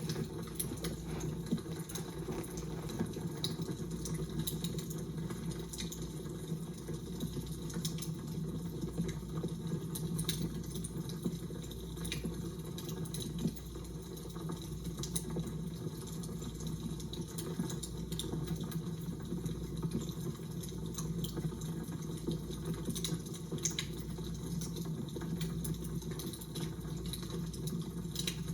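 Fire crackling: irregular sharp little pops and snaps over a steady low rumble.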